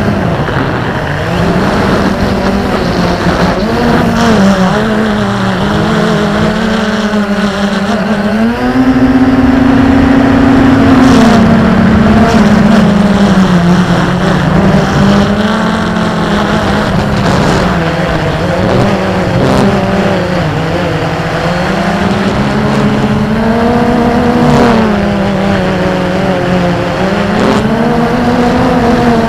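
XK Detect X380 quadcopter drone's motors and propellers humming continuously, the pitch wavering up and down as the throttle shifts, highest for a couple of seconds about nine seconds in. A rushing noise runs under it, fitting strong wind on the microphone.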